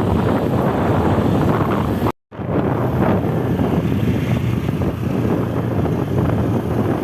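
Wind buffeting the microphone with a steady, dense low rumble. The sound cuts out completely for a moment about two seconds in.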